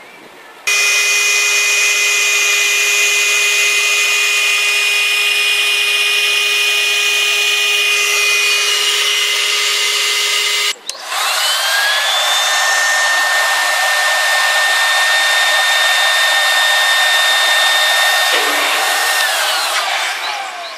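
Handheld car vacuum cleaner's electric motor switched on and running with a steady high whine, cutting off about ten seconds in, then starting again with a rising whine that holds steady and winds down near the end.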